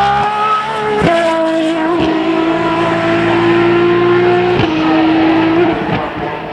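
Race car engine at high revs under acceleration, shifting up three times (about a second in, two seconds in, and again past the midpoint), its pitch creeping upward between shifts.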